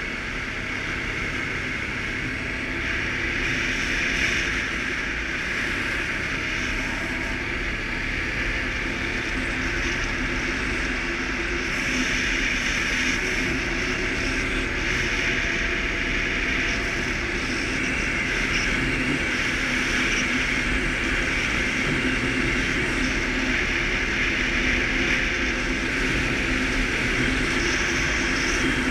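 Suzuki KingQuad ATV engine running steadily while riding, an even drone that grows a little louder about twelve seconds in.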